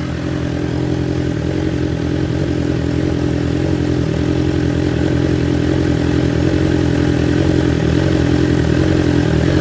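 BMW S1000XR inline-four engine idling steadily through an aftermarket slip-on exhaust with the stock catalytic converter still in place, not very loud.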